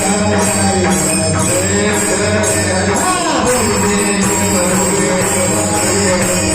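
Warkari bhajan: voices singing a devotional melody over a steady drone, kept in time by the jingling beat of hand cymbals and a drum.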